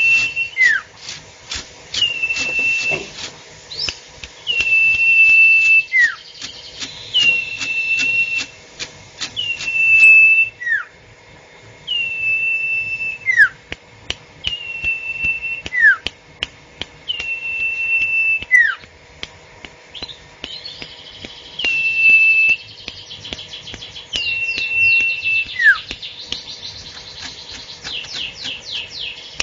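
A songbird singing a repeated whistled phrase without pause. Every two to three seconds it gives a clear, level high whistle, often with a quick falling slur, and bursts of rapid ticking chatter come near the start and again near the end.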